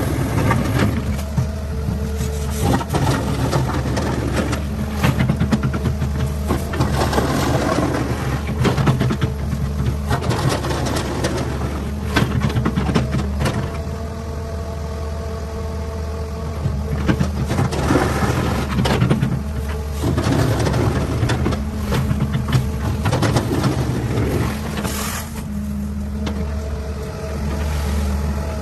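Caterpillar 6015B mining excavator at work: its diesel engine runs steadily under load while a whine comes and goes, and rock clatters in repeated spells as the bucket digs and loads a haul truck.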